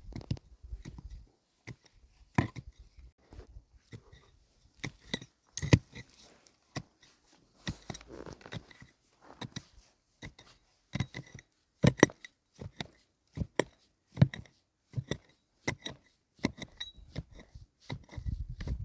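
Irregular knocks, clicks and clatters of wood and tools being handled during wooden roof building, some strokes sharper and louder, with short pauses between them.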